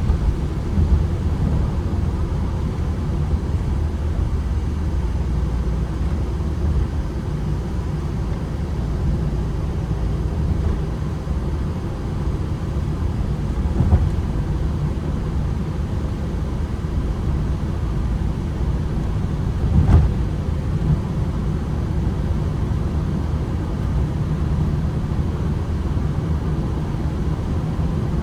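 Manual Ford Transit Connect van on the move: a steady petrol engine drone with road rumble. Two short knocks come through, one about halfway and one about two-thirds of the way in.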